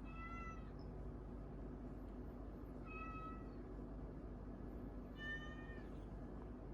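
A cat meowing three times, short high-pitched meows about two and a half seconds apart, over a steady low hum.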